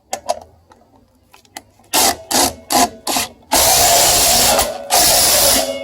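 Power tool run in four short bursts, then two longer runs of about a second each, tightening the flywheel nut back down on a Briggs and Stratton vertical-shaft engine after a sheared flywheel key was replaced. A few light clicks come first.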